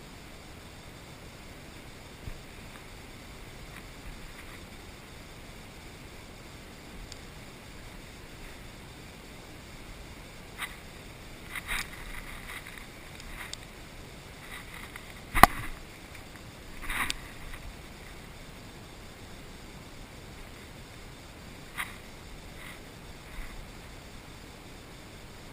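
Steady hiss, with a scattered run of short sharp clicks and snaps from the middle on; the loudest is a single sharp knock about halfway through, followed shortly by a slightly longer rustling burst.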